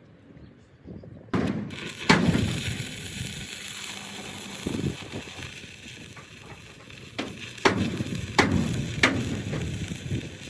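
Hammer blows on steel: five sharp ringing strikes, one about two seconds in and four in a quick run near the end. Under them runs a steady hiss that starts abruptly just over a second in.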